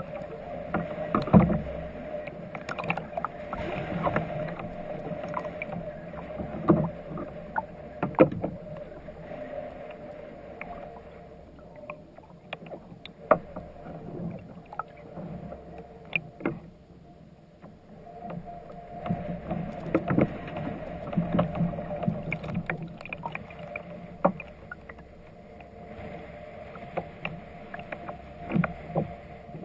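Water sloshing against a kayak hull, with scattered knocks and clicks from the boat, over a continuous low hum.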